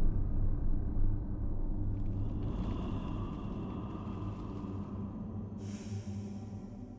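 Deep, steady rumble with a low hum that slowly fades, joined near the end by a hiss, then cut off.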